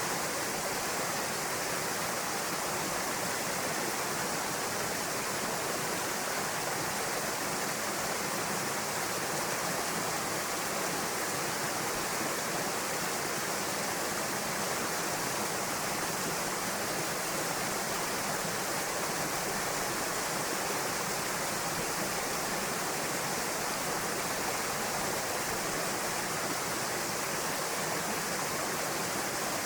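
Waterfall pouring into a pool, a steady even rush of falling water with no breaks.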